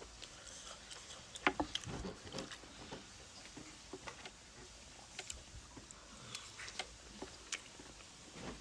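Close eating sounds of someone eating spicy instant ramen: irregular small smacks, clicks and chewing noises scattered throughout.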